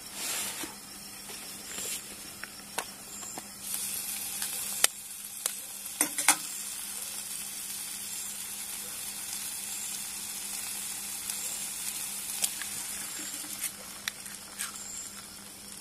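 Onions and tomatoes sizzling steadily in a frying pan for an egg curry, with a few sharp taps as eggs are cracked against the pan.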